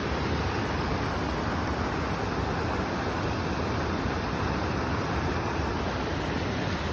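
A steady rushing noise with no separate events, strongest in the low and middle range.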